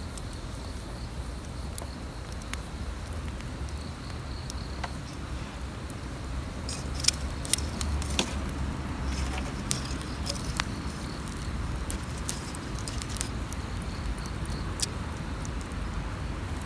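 Wood campfire burning: sharp crackles and pops from the burning wood over a steady low rumble, with a cluster of louder pops about halfway through.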